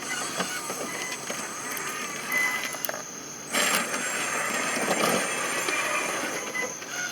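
RC4WD 1/14-scale Armageddon mining dump truck being driven, its electric drive motor and gears running. The sound gets louder about three and a half seconds in.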